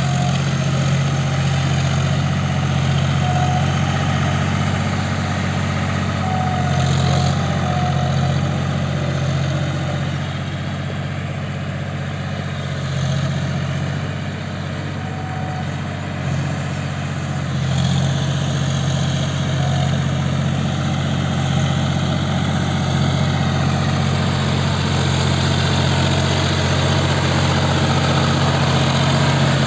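John Deere 5050D tractor's diesel engine running steadily with a deep, even hum, easing off slightly for a few seconds midway and picking up again.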